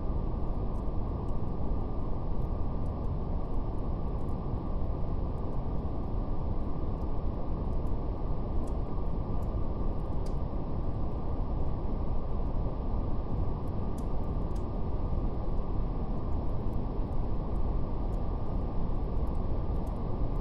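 Steady brown noise, a deep even rush with no variation. Faint scattered crackles of a fire tick irregularly on top of it.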